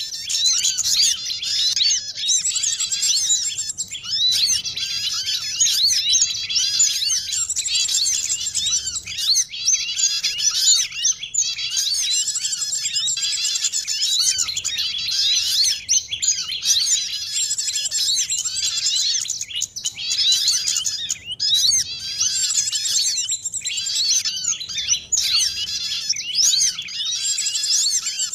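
Bird-luring call track: many small songbirds' high-pitched chirps and trills layered over one another in a dense, unbroken chatter, with only brief dips.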